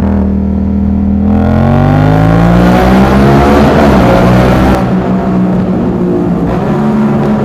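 Yamaha MT-07's CP2 689 cc parallel-twin with an aftermarket exhaust under hard acceleration. The engine note climbs steadily for about three seconds with a rising rush of noise. About two-thirds through, the throttle is closed and the engine settles to a steadier note.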